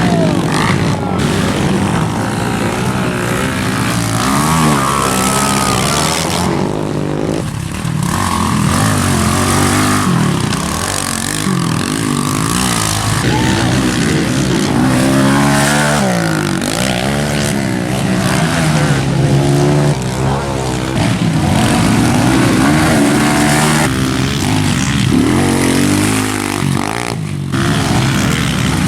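Pit bikes racing, their small engines revving up and falling back again and again, with more than one bike audible at a time.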